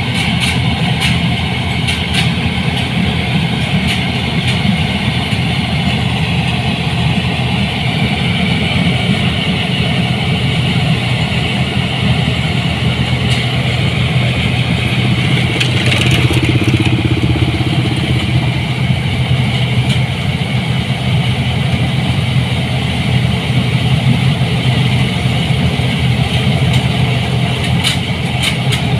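New Holland 8060 combine harvester's diesel engine running steadily under working load, with the clatter of its machinery.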